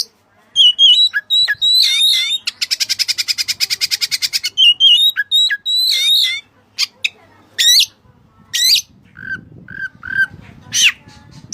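Oriental magpie-robin (kacer) singing a loud, varied song of sweet whistles and harsh chattering notes, with a fast rattling run of repeated notes lasting about two seconds near the start.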